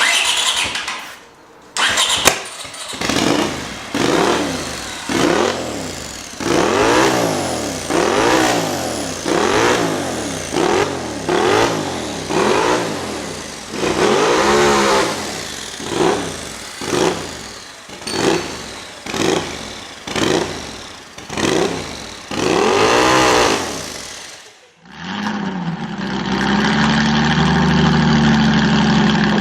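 Honda CX500 V-twin, turbocharged with no carburettor, cranked and firing on squirts of aerosol degreaser: it catches in repeated short bursts, about one a second, each revving up and dying away. About 25 seconds in it is running steadily.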